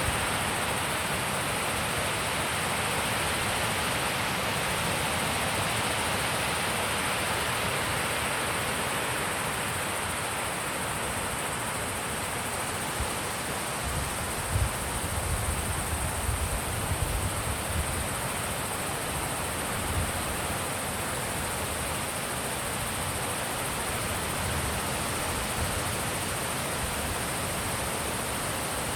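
Wind blowing steadily in an even rush, with a stretch of low rumbling gusts hitting the microphone about halfway through.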